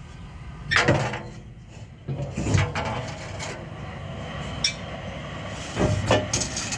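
Metal clunks and scraping from an exhaust pipe being worked off its rubber hangers and lowered from under a car. Louder knocks come about a second in, about halfway through, and again near the end.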